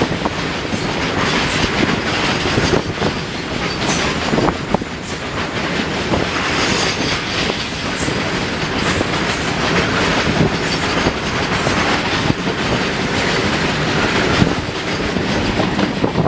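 A long rake of open-top steel freight wagons rolling past close by: a steady rumble and clatter of steel wheels on the rails, dotted with sharp clicks and knocks.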